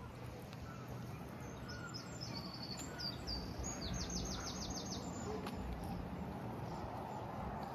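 A small songbird singing one short phrase of high chirps that ends in a fast run of falling notes, over steady outdoor background noise.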